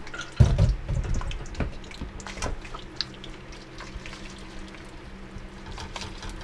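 Beef coated in egg and cornstarch crackling and spattering as it fries in hot oil in a steel wok, with a wooden spatula knocking and scraping against the pan as it is stirred; the heaviest knock comes about half a second in, and the crackle thins out after about three seconds. A range hood fan hums steadily underneath.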